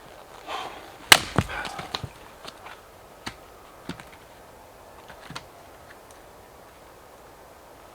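Sharp wooden knocks and cracks from firewood being processed: one loud chopping strike about a second in, a quick cluster of smaller knocks after it, then scattered light ticks.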